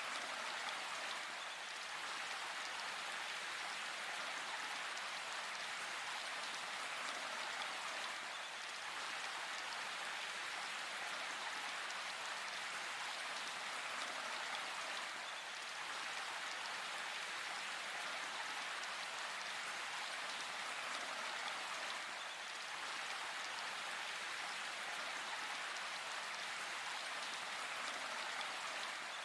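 Steady rain falling in a forest, an even patter of drops that holds level throughout.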